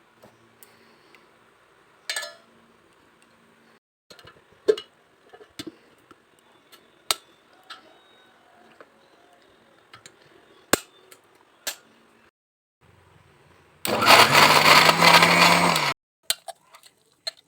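Scattered small knocks and clinks, then an electric mixer grinder runs for about two seconds near the end, grinding peeled ginger into a paste.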